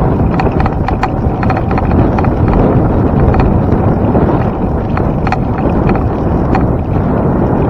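Wind buffeting the microphone of a camera on a moving bicycle, with many irregular light clicks and rattles from the bike over it.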